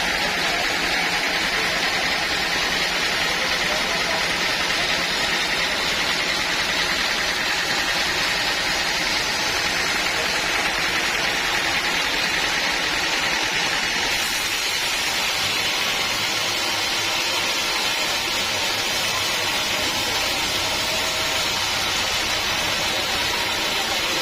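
Sawmill machine running steadily, with an abrupt change in the high end of its sound a little past halfway.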